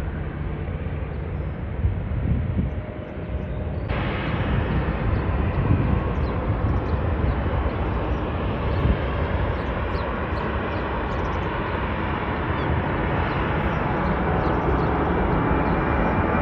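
Jet airliner taking off, its engines giving a steady rush of noise that grows slightly louder over the last several seconds.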